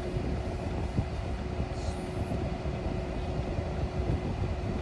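Road noise inside a moving car: a steady low rumble from tyres and engine.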